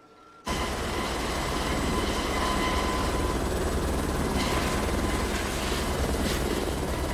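Helicopter in flight, its rotor beating fast and steady, cutting in abruptly about half a second in.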